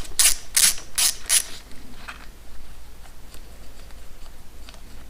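Hand socket ratchet clicking as it is worked back and forth on a small 7mm bolt, with about four quick strokes in the first second and a half. It then stops, leaving only faint light ticks.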